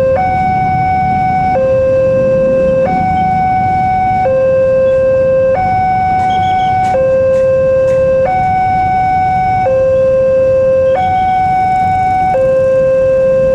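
Indonesian railway level-crossing alarm sounding, a higher tone and a lower tone alternating steadily, each lasting a little over a second.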